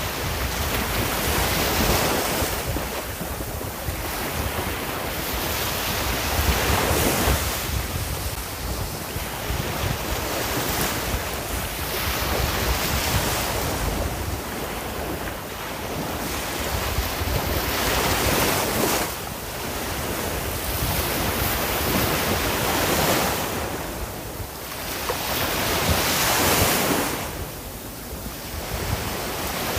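Sea waves washing onto the shore, a surge every four seconds or so, with a low rumble of wind on the microphone.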